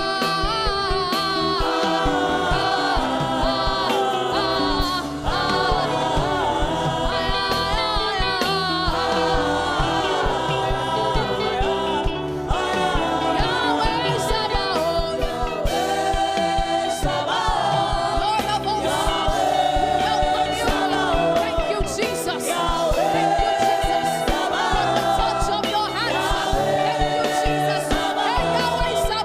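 Gospel worship music: voices singing together over sustained instrumental backing.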